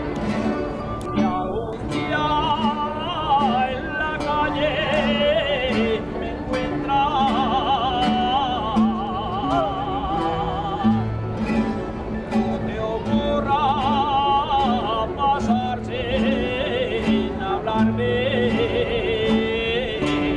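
Spanish folk ronda song: a voice singing a melody with wide vibrato over a group of guitars and other plucked strings, with a steady plucked bass pattern and fast tremolo picking above it.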